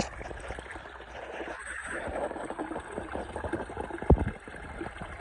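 Shallow hill stream running and trickling over stones, with a single sharp knock about four seconds in.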